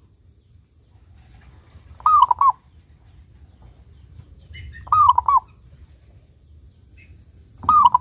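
Zebra dove (perkutut) cooing: three short phrases about three seconds apart, each a clear longer note followed by two quicker notes.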